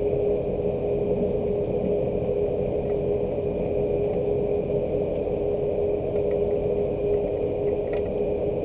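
Steady mechanical hum with one constant mid-pitched tone held over a low rushing noise, unchanging throughout.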